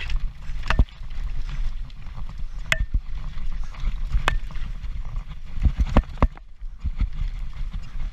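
Transition Patrol mountain bike descending a rough trail at race speed: irregular sharp knocks and clatter from the bike over rocks, over a steady low rumble from the helmet-mounted action camera.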